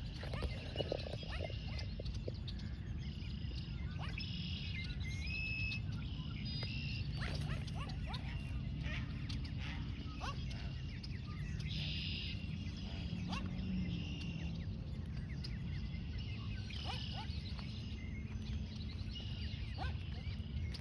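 Waterfowl calling, with short high-pitched calls every few seconds, over a steady low rumble.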